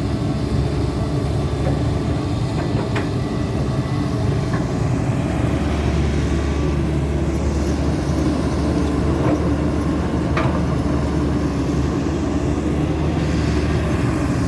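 Caterpillar 320D2 hydraulic excavator's diesel engine running steadily under load while it digs and loads a dump truck, with a few short knocks of the bucket and soil.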